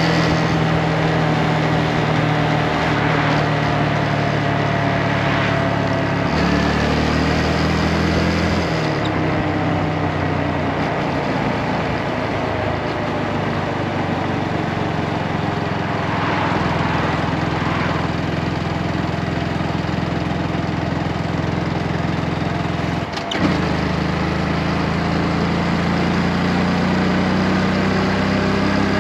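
Motorcycle engine running while riding, its pitch dropping and rising with gear changes and speed, over a steady rushing noise. There is a short knock about 23 seconds in.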